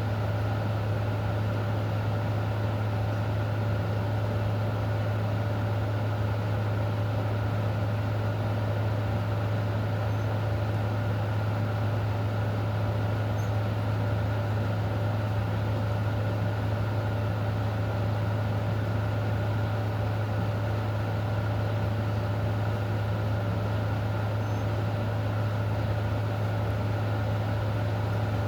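A steady low hum with a faint higher tone over an even hiss, unchanging throughout.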